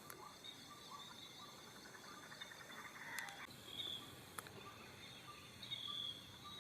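Faint natural ambience: insects trilling steadily in high tones, with birds giving short repeated chirps and a brief rapid rattling trill about three seconds in.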